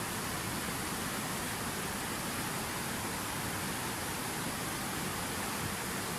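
Water pouring down a fountain waterfall: a steady, even rush that stays at one level throughout.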